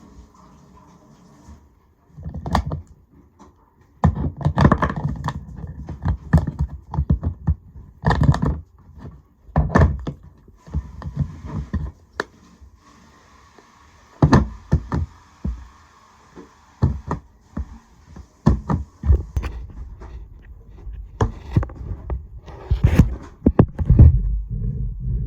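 Irregular knocks, thunks and scrapes of small objects being handled and set down on a hard surface.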